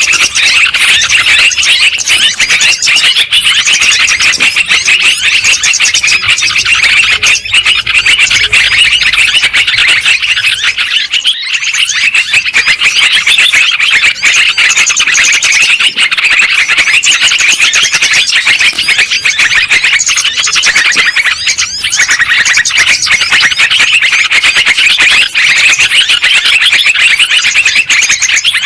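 Yellow-vented bulbuls (trucukan) chattering noisily in a dense, unbroken stream of rapid calls, with a brief lull about eleven seconds in.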